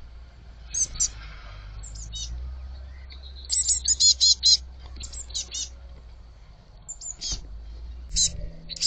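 Young blue tits chirping: short, high, sharp notes in little clusters, with a quick run of notes about three and a half seconds in. A low steady hum lies underneath and stops near the end.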